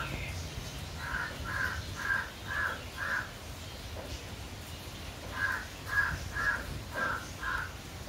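A bird calling in two runs of five short, harsh calls, about two a second, over a steady low hum.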